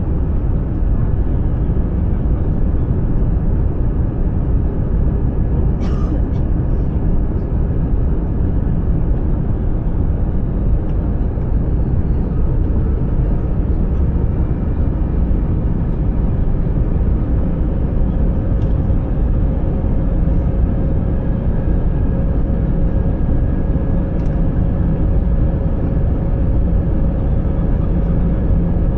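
Steady jet engine and airflow rumble heard inside the cabin of a Wizz Air airliner, with a faint steady whine that grows a little stronger about twenty seconds in. There is a single sharp click about six seconds in.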